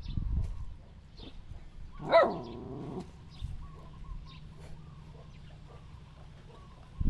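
A dog barks once, loud and pitched, about two seconds in. Faint scattered ticks follow.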